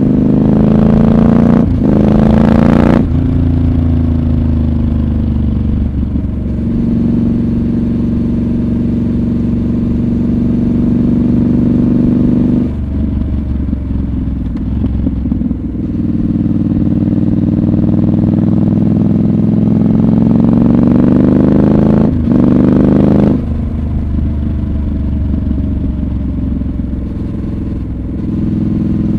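Triumph Scrambler 1200 XC's 1200 cc parallel-twin engine under way, heard from the rider's seat. It revs up with quick gear changes about two seconds in and again about twenty-two seconds in, and winds down slowly off the throttle in between.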